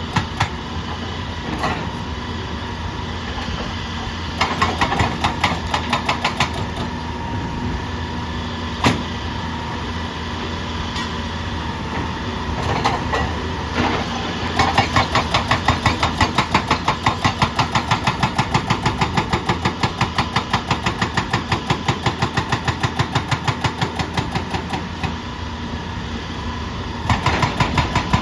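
An engine running with a rapid, even beat that grows louder for stretches. There is one sharp knock about nine seconds in.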